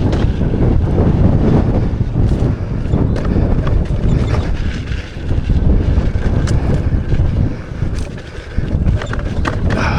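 Heavy wind buffeting on the microphone as an electric unicycle speeds down a dirt trail, with a few sharp knocks as the wheel hits bumps and small jumps.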